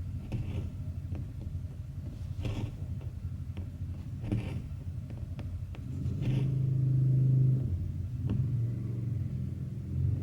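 A steady low rumble that swells to a louder hum about six seconds in, with short scratchy strokes every second or two, like needle and thread being pulled through cross-stitch fabric.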